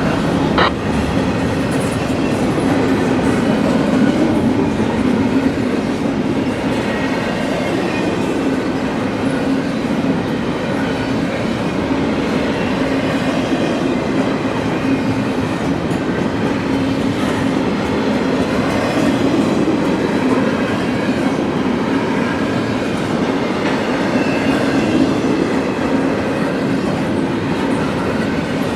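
CSX freight train cars rolling past: steady, loud noise of steel wheels on the rails with a clatter, and a sharp click under a second in.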